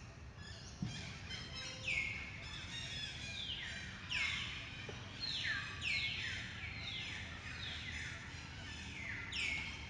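Birds calling with many repeated, overlapping notes that each slide down in pitch, about one or two a second and thickening into a busier chorus after a few seconds, over a low steady outdoor background noise.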